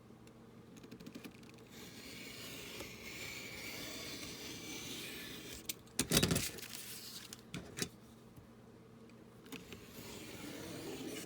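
A cutter blade drawn along a ruler through paper: a faint, steady scraping hiss for a few seconds, a sharp knock about six seconds in, then another cutting stroke near the end.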